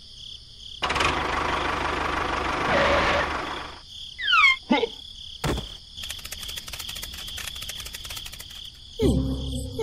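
A string of added cartoon sound effects over a steady high insect-like ring: a rushing noise for about three seconds, quick falling whistles, a single knock, then a rapid even clicking like a small motor, and a falling slide with a low rumble near the end.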